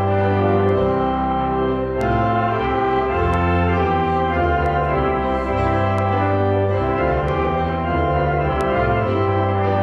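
Organ playing slow, sustained chords of a piece of sacred music, full and steady in volume.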